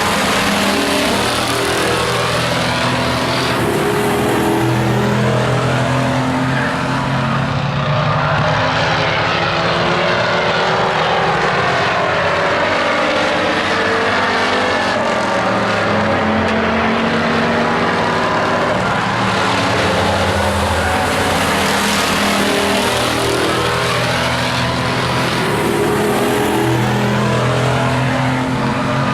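A pack of stock-class racing trucks' engines running hard around an oval track, several at once, their pitch rising and falling over and over as the trucks pass by.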